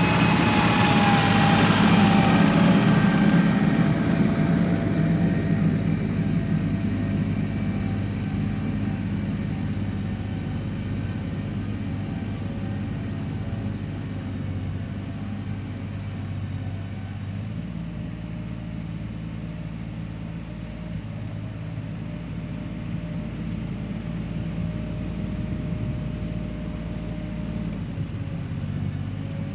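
1985 John Deere 1050 tractor's three-cylinder diesel engine running steadily. It is loudest in the first few seconds, then fades gradually, and its note shifts a little over halfway through.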